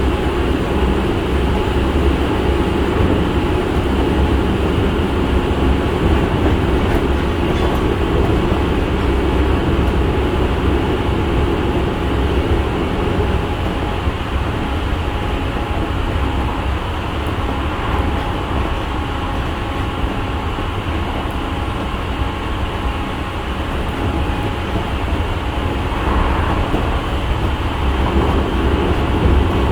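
Interior running sound of an Osaka Metro 66 series train with GTO VVVF inverters: a continuous rumble of wheels on rail and car noise while under way. The middle of the sound softens a little about halfway through and builds again near the end.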